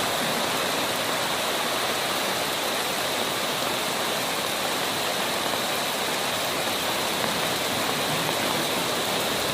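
Steady rush of heavy rain and fast-running floodwater pouring along a flooded street.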